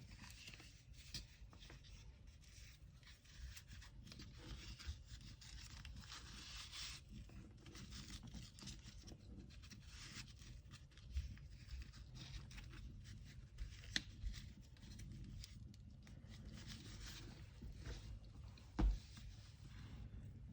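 Packing materials being handled: paper rustling and crinkling with tearing and rubbing, scattered light clicks and taps, and a dull thump near the end, the loudest sound.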